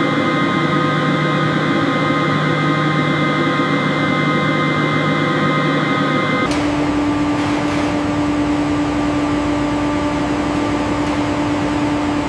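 Steady machine hum, like a motor running, with several steady tones. About six and a half seconds in it changes abruptly to a different hum, with one strong low tone and more hiss.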